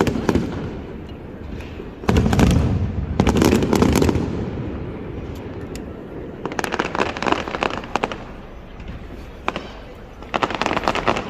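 Aerial fireworks going off: two heavy booms a couple of seconds in, then rapid volleys of sharp crackling shots around halfway and again near the end.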